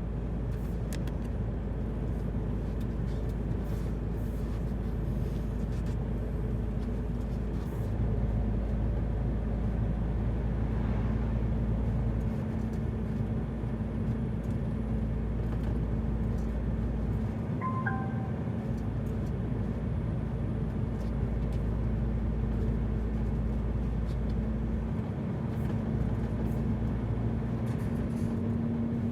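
Heavy truck engine running steadily under light load while the truck rolls down a ferry ramp, with a deep hum that rises slightly in pitch near the end. A short chime of four falling notes sounds about halfway through.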